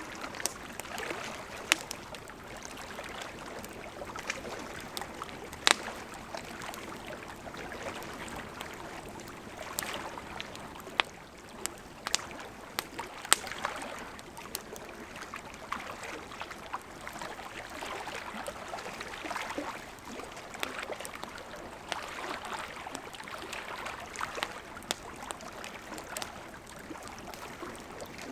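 Campfire crackling, with irregular sharp pops and snaps, over the steady rush of a gently flowing river.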